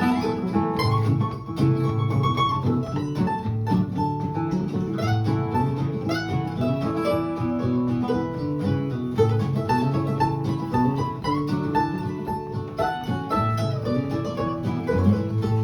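Instrumental break in an upbeat country song: plucked string instruments pick a quick melody of short notes over a steady bass beat, with no singing.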